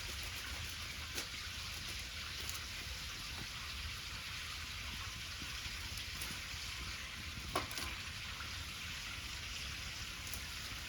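Pancake batter sizzling in a pan over a bonfire: a steady hiss, with a few sharp crackles from the burning wood about a second in and again past seven seconds.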